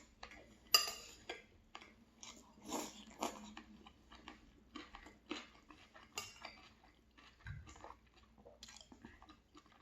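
A person chewing food close to the microphone: an irregular run of short mouth clicks and crunches, the loudest about a second in.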